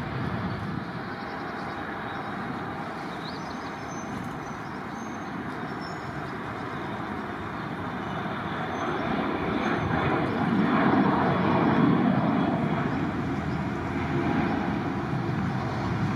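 Jet aircraft engines at an airport: a steady rushing noise that swells about ten seconds in, then eases off.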